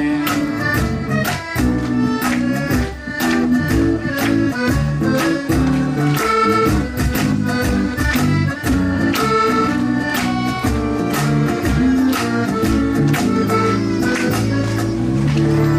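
Live band playing an instrumental passage with a steady drum beat under a melody of held notes.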